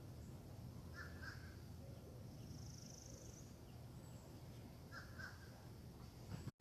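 A crow calling: two short double caws about four seconds apart, faint over a steady low background rumble.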